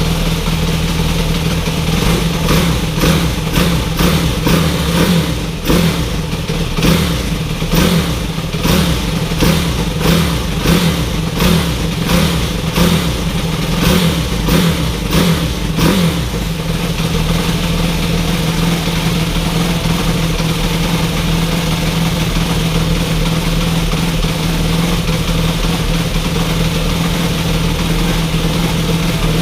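Bored-up Honda Monkey 12V single-cylinder four-stroke engine, just overhauled, idling and revved in a quick series of short throttle blips for the first half. It then settles back to a steady idle.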